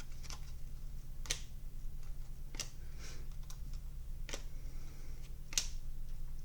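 Glossy trading cards being flipped through one at a time: sharp clicks about once a second, over a steady low hum.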